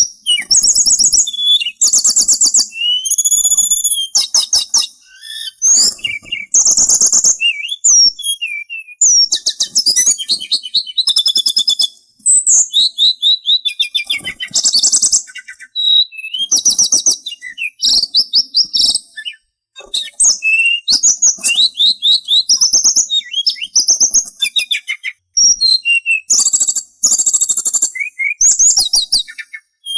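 Sulingan songbird singing a loud, varied song of rapid high trills and whistled gliding notes, delivered in short phrases with brief gaps between them.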